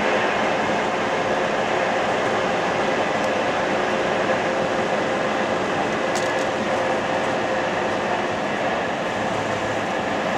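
Steady road and engine noise inside a semi-truck's cab running at highway speed.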